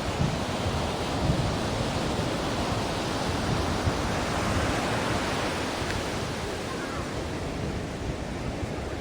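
Ocean surf: a continuous wash of breaking waves, swelling a little in the first half and easing off toward the end.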